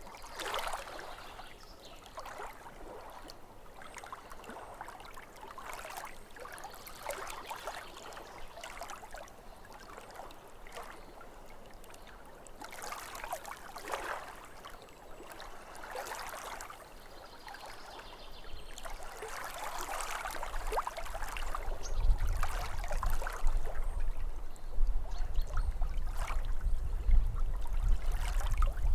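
Small lake waves lapping at the shore in irregular splashes. From about two-thirds of the way through, a low rumble joins and the sound grows louder.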